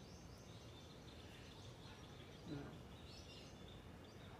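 Near silence with faint, high bird chirps in the background, a short cluster of them about three seconds in.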